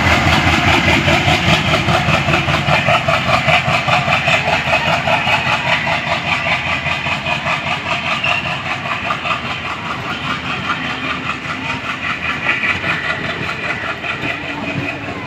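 A train of ICF passenger coaches rolling past, their wheels clattering over the rail joints in a fast, steady rhythm. The sound slowly grows quieter.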